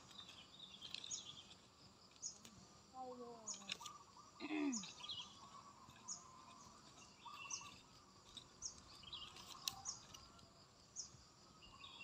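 Faint open-field ambience: a bird gives short, high chirps over and over, about once a second. A distant voice or call drops in pitch briefly near the middle.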